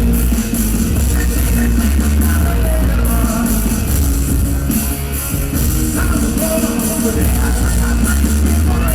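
Rock song performed live: heavy bass and drums with a man singing over them.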